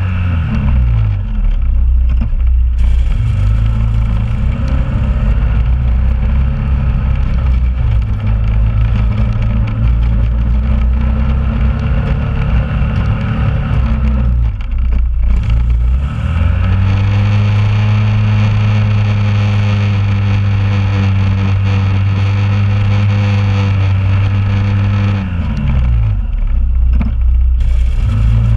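2001 Honda Rubicon ATV engine running steadily, its pitch falling and rising with the throttle. It dips briefly about halfway through, climbs to a higher steady pitch, then drops again near the end.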